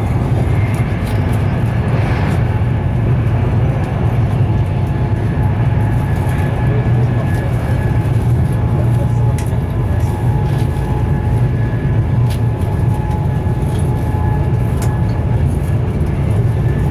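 Cabin noise of a Class 390 Pendolino electric multiple unit running at speed: a steady low rumble of wheels on rail with a faint steady whine held above it. There is a brief swell of noise about two seconds in, and a few light ticks.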